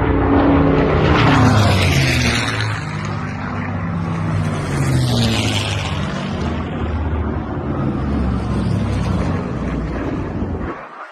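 Aircraft engine flying past, loud and steady, its pitch falling as it passes; a second fall in pitch comes about five seconds in. The sound drops away suddenly near the end.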